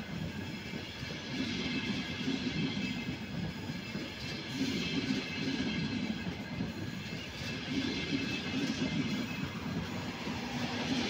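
ETR 500 high-speed train rolling past along the platform: a steady rush and rumble of wheels on rail, with a faint high whine over it.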